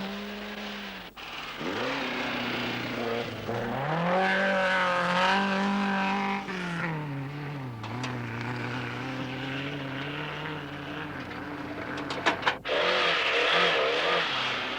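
Rally car engines revving hard, the pitch rising and falling as they speed up and slow down. A few sharp clicks come near the end.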